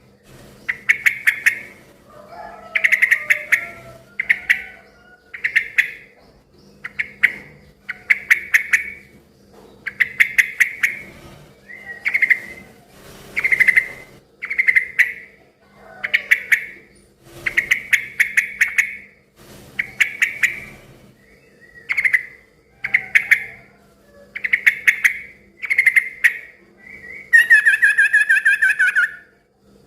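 Yellow-vented bulbul (trucukan) calling: short, bubbly chattering phrases repeated roughly once a second, with a longer, louder phrase near the end that falls in pitch. A faint steady hum runs underneath.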